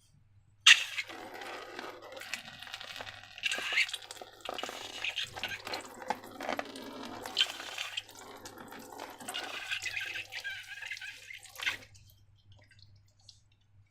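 Wet, sticky slime squelching and crackling as it is squeezed and worked, full of small clicks and drips. It starts under a second in and stops about two seconds before the end.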